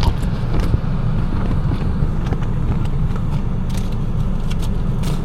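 Car's steady low rumble heard from inside the cabin, with a few faint clicks.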